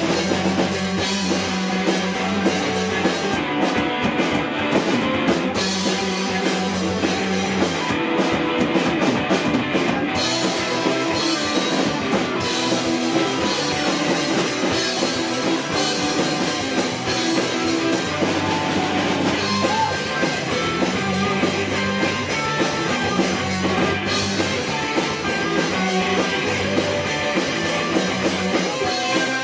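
Live rock band playing a song, with a drum kit and guitar.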